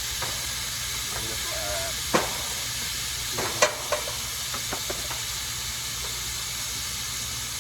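Steady hiss of pressurized CO2 escaping from the heat pump condenser's lines, with two sharp metallic clicks and a few lighter ticks in the middle.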